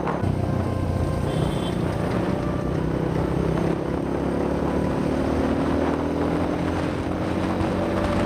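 Dirt bike's single-cylinder engine running while riding, heard from on the bike, its pitch rising steadily through the second half as it accelerates. A brief high beep comes about a second and a half in.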